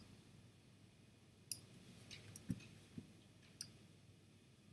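Faint computer mouse clicks, a few scattered sharp ticks, with two soft low thumps a little past halfway.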